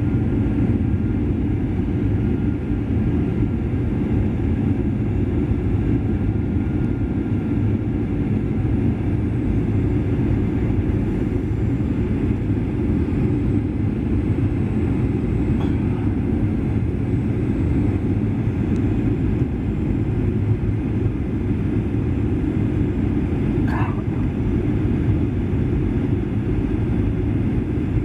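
Steady low rumble of a Boeing 737-800's engines and airflow, heard from a seat inside the cabin. A brief faint higher sound comes in near the end.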